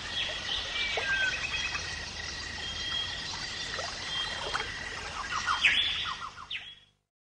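Birds chirping over a steady hiss: short calls, quick pitch glides and a brief trill. The sound cuts off abruptly near the end.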